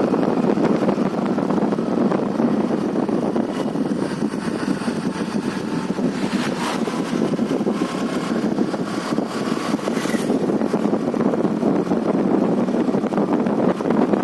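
A motor vehicle running steadily, its engine and travel noise constant throughout. A few short knocks come about halfway through.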